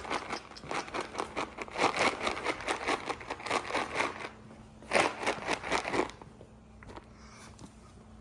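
Crinkling of a cat-treat bag being handled, in two spells: about four seconds of rapid crinkling, then a shorter burst about five seconds in.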